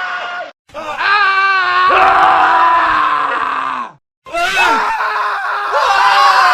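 Men screaming, one recorded scream after another. The tail of one scream ends with a hard cut, then a long wavering scream of about three seconds. After a second brief gap, another scream starts about four seconds in.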